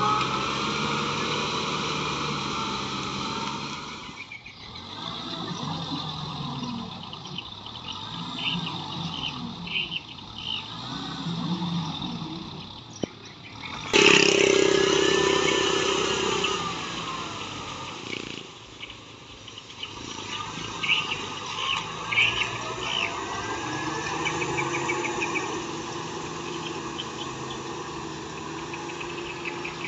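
Kubota M6040SU tractor's diesel engine running under load while tilling mud, its pitch rising and falling. The sound drops away and comes back a few times, with a sudden loud jump about halfway through.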